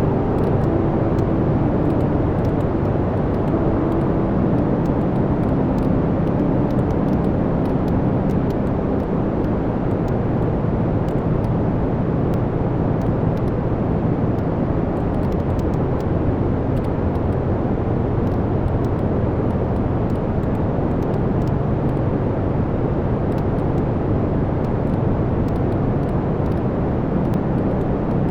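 Wood fire burning in a fireplace: a steady low rumble of flames with frequent small crackles and pops of the burning logs. A faint whine slides down in pitch over the first few seconds.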